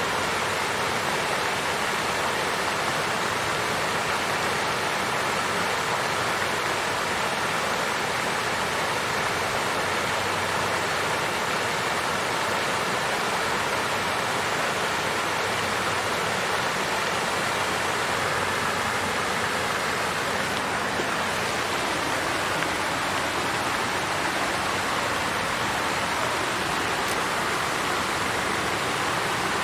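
Water fountain flowing and splashing steadily: an even rush of falling water with no breaks or changes.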